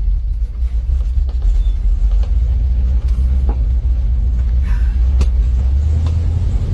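Truck engine and road rumble heard while driving, a steady low drone that shifts up in pitch near the end, with a couple of sharp clicks partway through.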